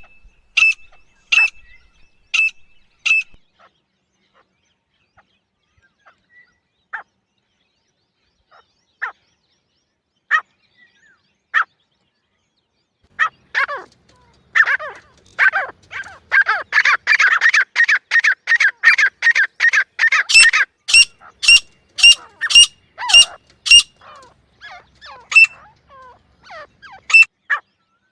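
Francolin calling. A run of sharp repeated calls opens, then scattered single notes. Near the middle comes a dense, rapid chattering stretch, followed by a series of loud, sharp calls and a few more spaced calls near the end.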